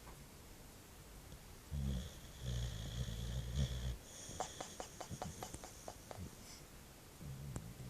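Boxer dog snoring in its sleep: a low, drawn-out snore about two seconds in, then a quick series of about a dozen soft pops as its loose lips flap and blubber on the breath out. Another snore starts near the end.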